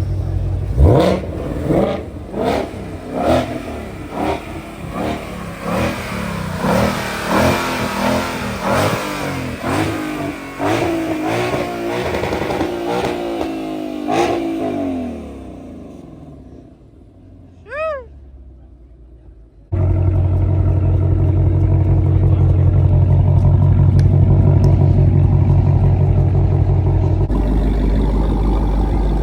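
Car engines revved hard over and over, about once a second, each rev a quick rise in pitch; the revving fades out after about fifteen seconds. A short tone sounds about eighteen seconds in, then a loud, steady, low engine drone starts suddenly.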